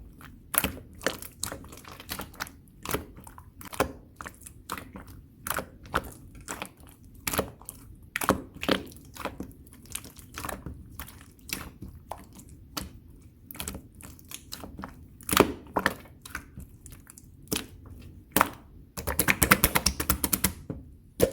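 Clear slime being pressed and squeezed by hand, giving sharp popping clicks about two or three a second, then a quick run of rapid pops near the end.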